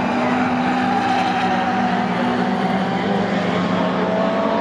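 Racing V8 engines of 1960s Ford Mustang and Falcon touring cars running hard on track, a continuous engine drone whose pitch holds fairly steady and sags slightly.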